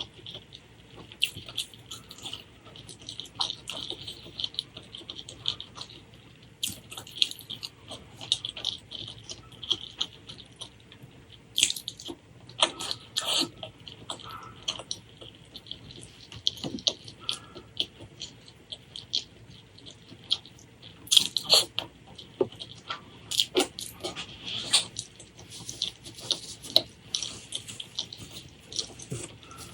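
Close-miked eating: wet chewing and mouth smacking, a steady string of irregular moist clicks and squelches.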